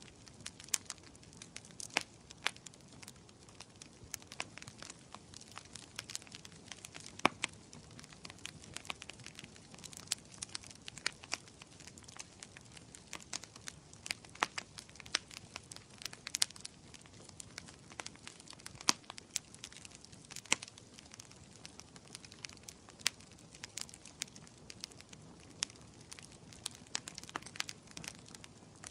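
Wood fire crackling in a fireplace: a soft steady hiss with frequent sharp, irregular pops and snaps.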